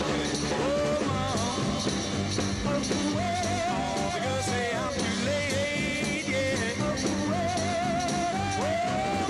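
A 1960s rock-and-roll song with a singer over a full band backing.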